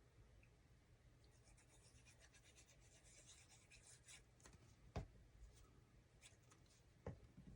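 Faint handling of paper cardstock on a desk: light rubbing and scratching strokes, then two soft taps.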